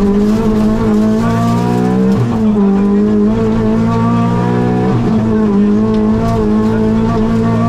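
Rally car engine at full throttle, heard from inside the cabin. Its note climbs and then falls back sharply twice, about two and five seconds in, over steady road noise.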